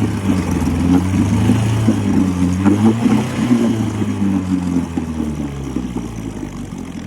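1956 Johnson 7.5 hp two-stroke outboard motor running in a test barrel on a rich 16-to-1 fuel mix. It holds a fast speed, then eases back, its pitch and loudness falling over the last few seconds.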